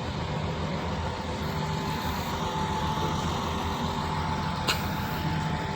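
A heavy engine running steadily, with a thin steady whine above it and one sharp click a little before the end.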